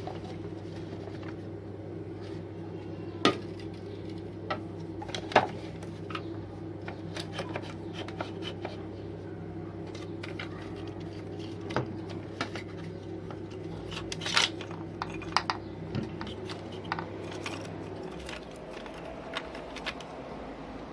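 Small hard objects being handled, clicking and knocking against each other at irregular moments, over a steady low hum that stops about 18 seconds in.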